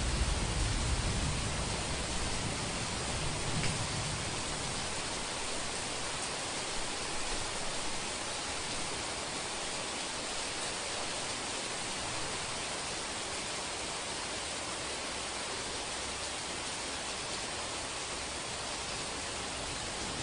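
Steady rain hiss, with a low rumble of thunder dying away over the first few seconds.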